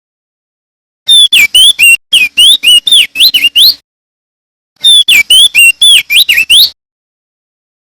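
Male opior jambul (crested white-eye) singing: two loud bouts of rapid whistled song, each a quick run of sweeping, up-and-down clear notes, the first starting about a second in and the second about five seconds in, with silent gaps between.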